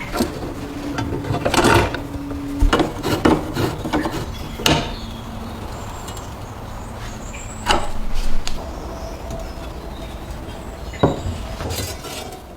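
A series of irregular knocks and clatters of hard objects being handled, in several clusters, over a low steady hum.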